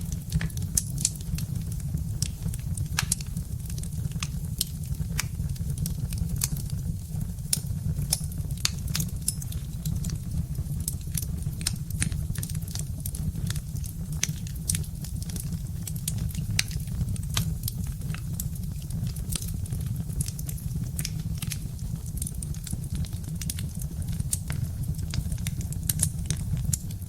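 Birch-wood fire crackling, with many sharp irregular pops over a steady low rumble.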